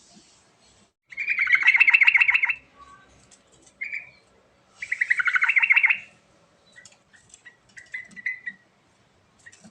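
Yellow-vented bulbul singing: two loud bursts of fast, chattering repeated notes about three seconds apart, followed by a few short scattered chirps.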